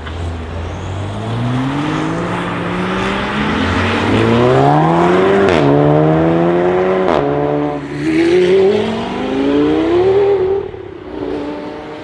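BMW M2 F87's turbocharged straight-six, breathing through a decatted Fi exhaust, accelerating hard: its pitch climbs steadily, drops sharply twice as it shifts up, then climbs again and falls away near the end.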